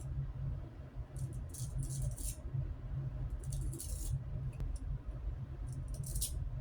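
Boar-bristle shaving brush working up soap lather: a series of short, irregular swishing strokes over a steady low hum.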